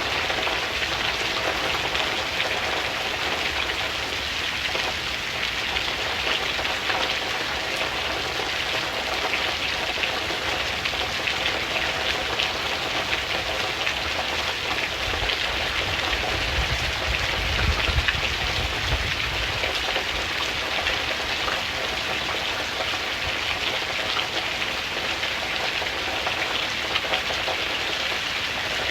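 Steady rain with a dense patter of drops. A low rumble swells and fades about two-thirds of the way through.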